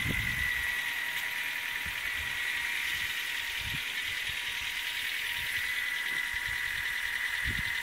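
Ford Focus Mk2 facelift's 1.6 petrol four-cylinder engine idling steadily, with a thin high whine held over it.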